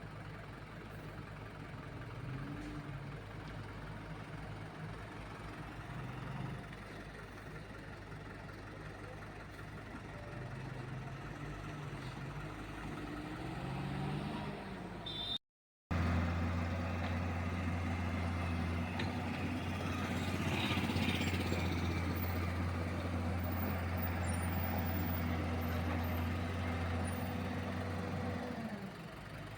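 Heavy lorry engines on a highway: engine hum that rises and falls in pitch as vehicles move. Then, after a cut, a steady low engine drone close by that stops shortly before the end.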